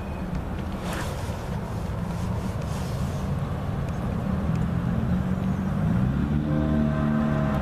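Diesel-electric freight locomotive, a GE AC4400CW with a 16-cylinder diesel, approaching with its engine working, a low rumble that grows steadily louder and takes on clearer engine tones over the last few seconds.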